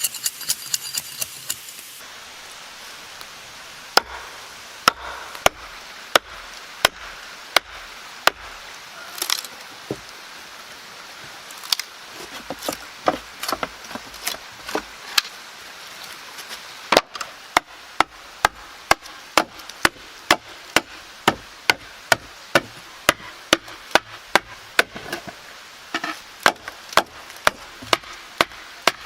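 A tool striking wood over and over in steady blows, about two a second, faster and more regular in the second half. During the first two seconds there is a quicker run of ringing strikes.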